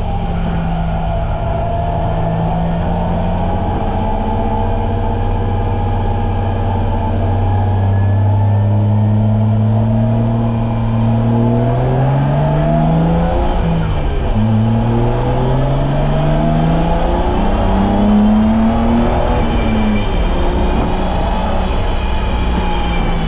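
BMW E30's M20B25 2.5-litre inline-six racing on track, its revs climbing slowly under load. About two-thirds of the way through, a gear change drops the revs, which then climb again before falling away near the end as the driver lifts off.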